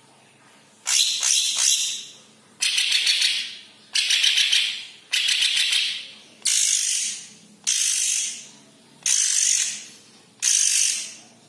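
Cucak ijo kepala kuning (leafbird) giving harsh, rasping rattle calls, repeated about eight times, one roughly every second and a quarter.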